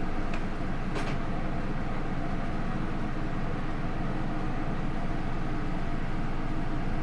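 Interior running sound of a Hino Rainbow II bus, its Isuzu 4HK1-TCH four-cylinder turbodiesel and Aisin automatic transmission running with a steady drone, and two brief clicks in the first second or so.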